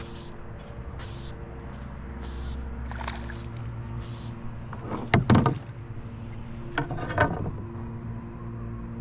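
Knocks and thumps in a canoe, a cluster about five seconds in and another a little after seven seconds, over a steady low hum.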